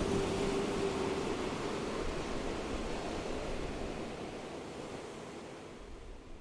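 Steady rushing river water, an even hiss with no distinct splashes, fading out gradually to near silence by the end.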